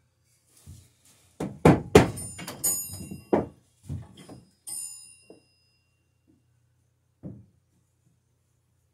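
A clatter of knocks and thunks, as of wood and tools being handled and set down on a workbench. Some of the knocks are followed by short metallic rings. The densest run comes between about one and a half and three and a half seconds in, with a single knock near the end.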